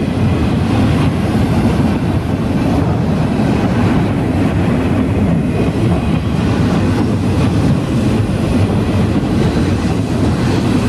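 Freight train of autorack cars rolling past, a loud steady rumble of steel wheels on the rails.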